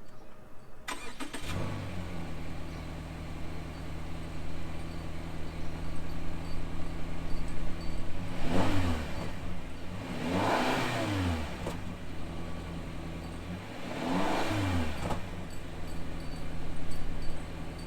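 Subaru Impreza's 2.0-litre flat-four boxer engine through the stock factory muffler: it starts about a second in and idles, then is revved three times, the pitch rising and falling back each time. The exhaust note is fairly quiet, as the OEM muffler leaves it.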